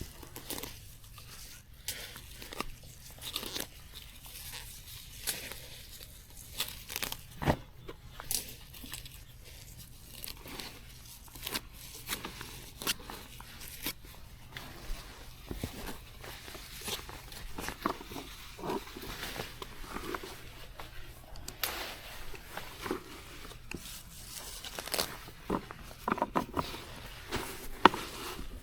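Plant stems and leaves being torn and snapped: irregular crunching and tearing with many sharp snaps, one louder snap a few seconds in and another near the end.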